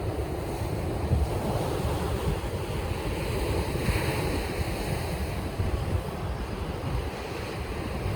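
Ocean surf breaking and washing steadily at a river mouth, with wind buffeting the microphone as a low rumble.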